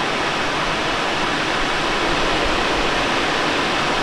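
Steady rush of airflow over a Let L-13 Blaník glider in flight, heard from inside the cockpit as an even, unbroken hiss.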